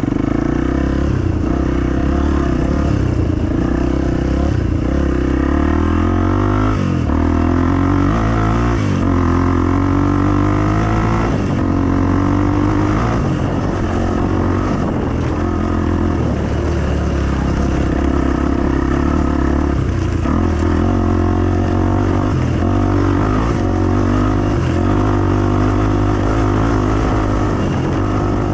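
A 250 dirt bike's engine running continuously while riding, the revs rising and falling several times in the first half, then holding fairly steady.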